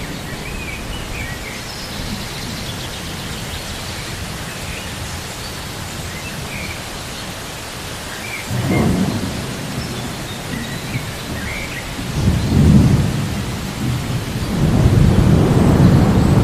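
Steady rain with thunder rumbling: a first roll about eight and a half seconds in, then heavier, longer rumbles from about twelve seconds on.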